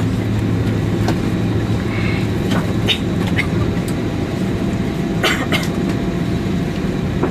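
Steady low rumble inside an Airbus A320 passenger cabin before takeoff, with a low hum that stops about three seconds in and a few short clicks and knocks.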